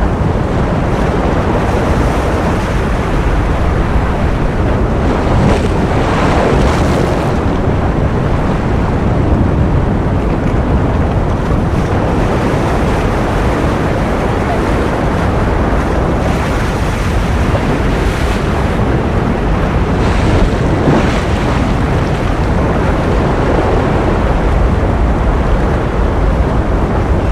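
Ocean surf noise: a steady, dense rush of water, heaviest in the low end, with a couple of swells that brighten it for a second or two.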